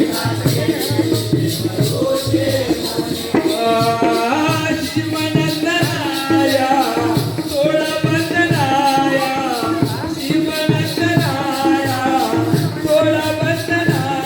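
Jakhadi folk music: a steady, rhythmic drum beat with jingling percussion, and a man's sung melody that comes in about three and a half seconds in.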